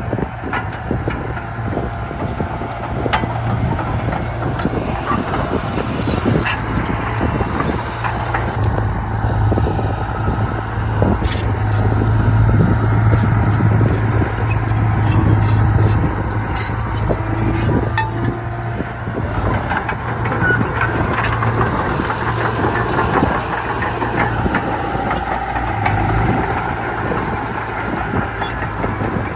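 Komatsu D31P bulldozer's diesel engine running steadily under load while pushing soil, with scattered metallic clanks from the machine.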